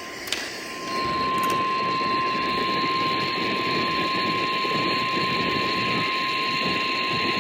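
NOAA Weather Radio's 1050 Hz warning alarm tone: one steady, unbroken tone, the signal that a warning broadcast follows. It sounds over heavy radio static hiss, which gets louder about a second in.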